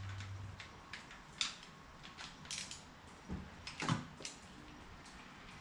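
Irregular metal clicks and ticks of a wrench working a rocker-arm adjusting nut on a small-block Chevy, setting the valve lash. The sharpest click comes about four seconds in, and a low hum cuts off about half a second in.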